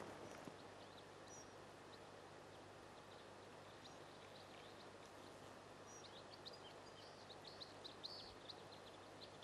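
Near silence with faint, short, high bird chirps, coming more often in the second half.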